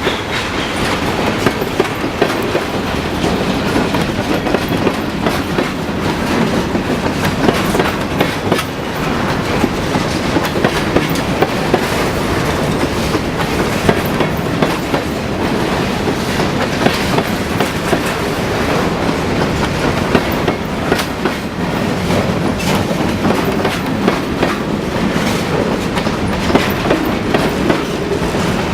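Freight train rolling past, its wheels clicking steadily over the rail joints.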